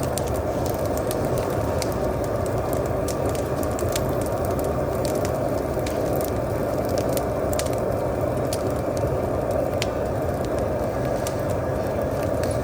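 Burning brush pile crackling, with many irregular sharp snaps and pops over a steady roar.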